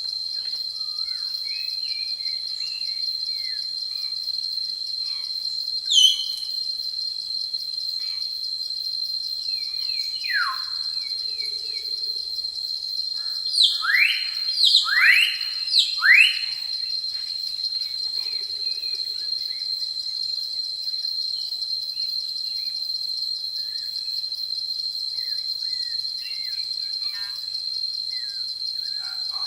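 Forest ambience: a steady, high insect trill like crickets runs throughout. Birds call over it with a few sweeping whistled notes, the loudest a quick run of four about halfway through.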